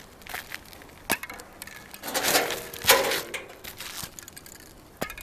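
Asphalt roof shingles being handled and fitted: two stretches of scraping and crinkling in the middle, with a sharp knock about a second in and another near the end.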